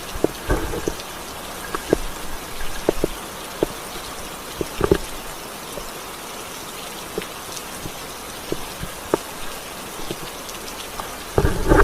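Steady rain falling, with single drops tapping loudly and irregularly close to the microphone.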